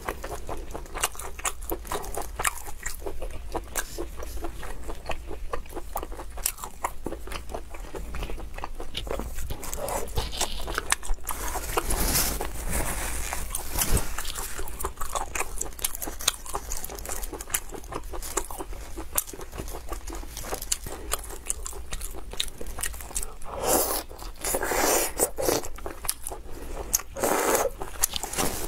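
Close-up chewing and biting of spicy ring-shaped sausages (quanquan chang), a dense run of small clicking mouth sounds, with louder stretches about ten seconds in and again near the end.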